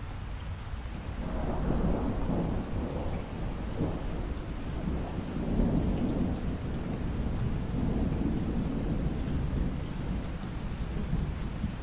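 Steady rain with a long roll of thunder that swells about a second in and rumbles on through the rest.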